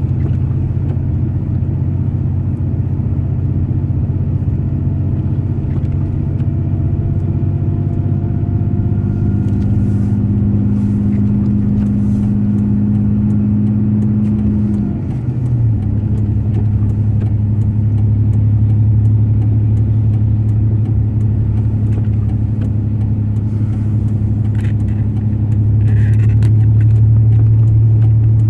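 Pickup truck's engine and road noise heard from inside the cab while driving at a steady pace: a constant low drone. About halfway through the engine note changes pitch.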